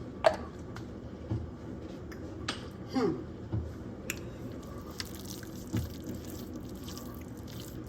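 Wet cornbread dressing being stirred, with squelching and soft knocks and clicks of the spoon against the pan every second or two.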